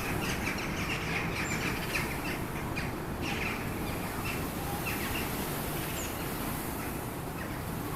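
A murmuration of common starlings sweeping close past: a steady whooshing rush of many wingbeats through the air, with scattered short chirps and calls from the flock.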